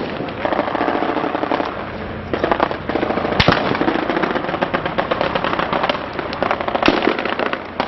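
Sustained small-arms and machine-gun fire: a rapid, dense run of shots with a few louder, close single cracks among them.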